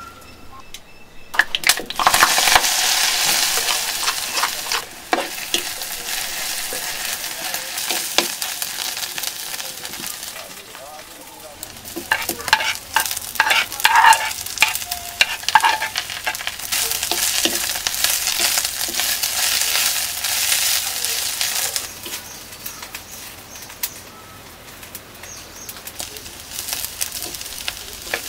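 Sliced onion and curry leaves sizzling in hot coconut oil in a wok. The hiss surges sharply about a second and a half in, then fades. A spoon knocks and scrapes against the pan midway, and a fresh surge of sizzling follows as more curry leaves go in, before it settles to a quieter fry.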